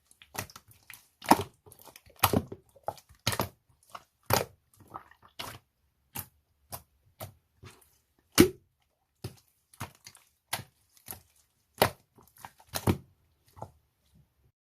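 A large batch of slime being squeezed and pressed by hand, giving sharp, irregular wet pops and clicks: louder pops about once a second, with fainter crackles between them.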